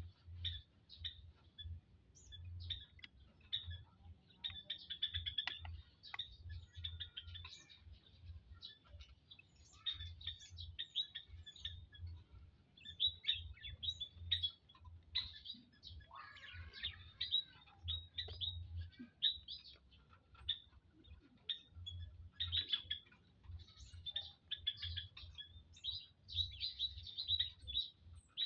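Birds chirping: many short, high chirps in quick, irregular succession, over a low pulsing hum.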